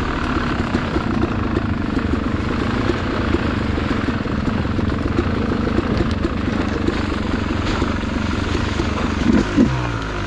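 Dirt bike engine running at low revs with an uneven chugging note, revving up about nine seconds in.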